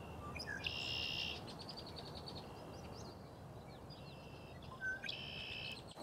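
Small birds singing faintly: a high buzzy note about a second in and again near the end, with a quick run of ticking notes and a few short chirps in between.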